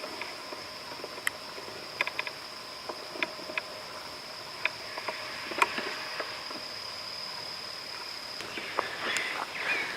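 Insects chirring in a steady, high-pitched drone, with scattered light clicks and crunches over it and a brief rougher rustle about nine seconds in.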